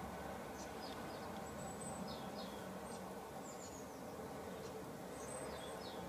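Small birds chirping faintly: clusters of short, high, falling chirps every second or so over a steady background hiss.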